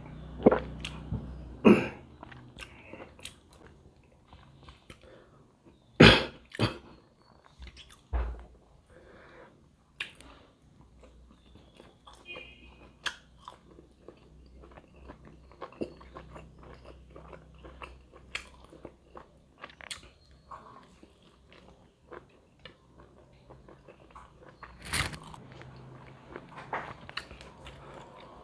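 A person chewing and biting into large steamed pork momos: a run of wet mouth smacks and short clicks, with louder bites about six seconds in and again near the end.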